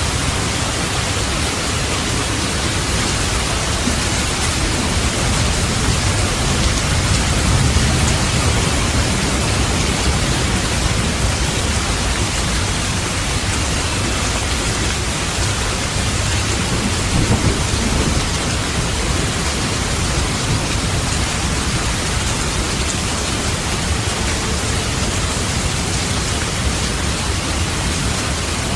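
Steady heavy rain with thunder rumbling low, swelling about seven seconds in and again around seventeen seconds.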